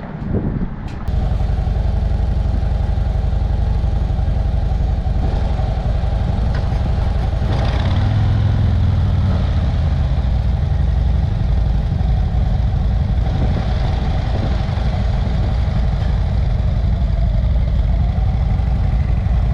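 Motorcycle engine running on the move, with heavy wind rumble on the helmet microphone. It gets louder about a second in, and the engine note briefly rises and falls about eight seconds in.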